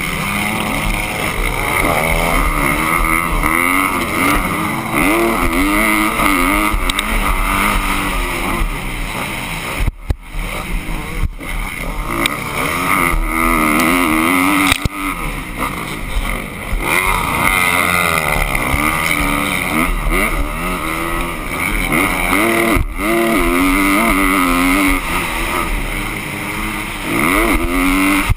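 Motocross dirt-bike engines revving up and falling back again and again, as on a track, with brief dips in the sound a few times.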